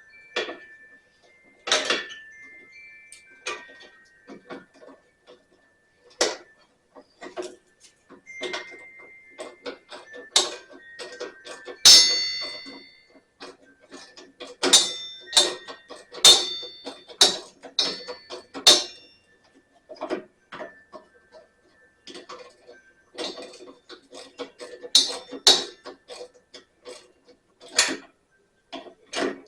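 Hand tools clinking and tapping against metal parts of a riding mower while a switch is unbolted: irregular sharp clicks and knocks, some with a brief metallic ring.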